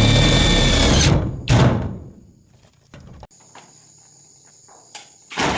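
A power tool running in short bursts: a whining run that stops about a second in, a second brief burst just after, and another short burst near the end.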